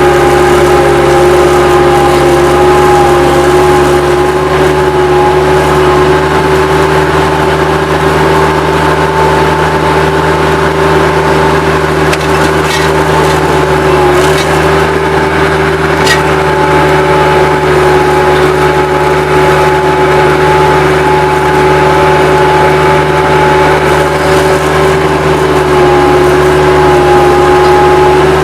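Bobcat 763 skid-steer loader's diesel engine running steadily at high throttle, with a steady high tone over it and a few faint clanks around the middle.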